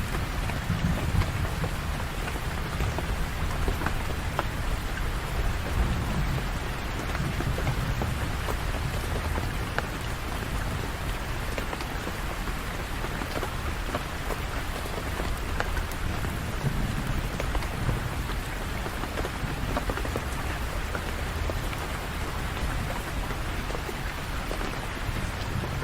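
Steady rain falling on surfaces, with faint scattered drop ticks and a low, even rumble underneath.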